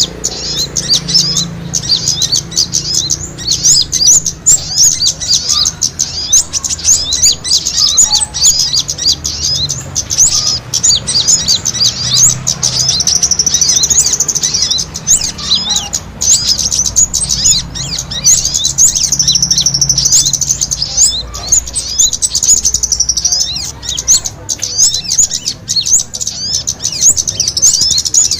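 Many small birds chirping at once in a dense, high-pitched chatter of quick overlapping calls: a bird-lure recording of small birds squabbling, used to draw wild birds in.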